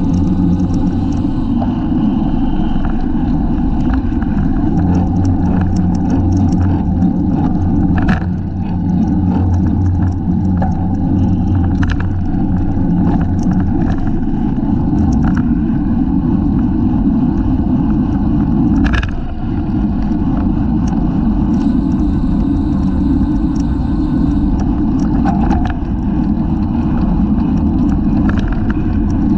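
Steady wind rush and road rumble on a camera mounted on a racing bicycle, with scattered clicks and rattles.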